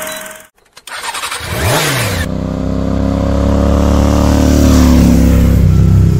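Motorcycle engine revving up about a second in, then running loud and steady, its pitch slowly falling.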